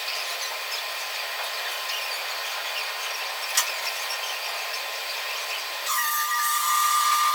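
Power-tool metalworking on steel: a steady hissing, scraping noise with one sharp click about halfway through. About six seconds in, a tool with a steady high whine starts and the sound gets louder.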